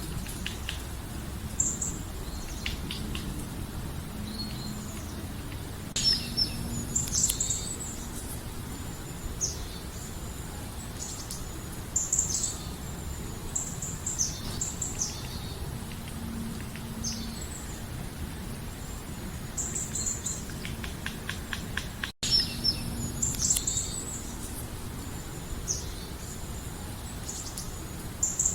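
Several birds chirping and calling in short, high, repeated notes over a steady low background rumble, with a brief break in the sound about two-thirds of the way through.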